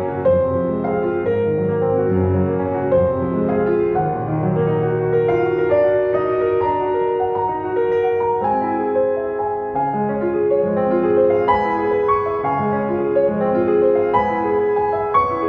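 Background piano music, slow and gentle, with sustained notes and chords.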